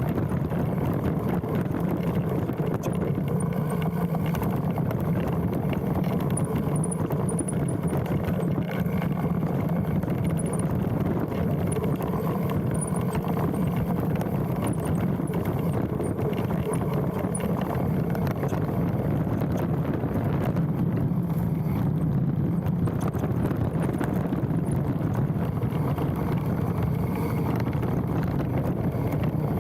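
Specialized Stumpjumper mountain bike riding downhill on a dirt trail: a steady rumble of tyres and rattle of the bike, picked up through the handlebar-mounted camera, with wind noise. Short, faint, high squeals of the brakes come here and there at braking points.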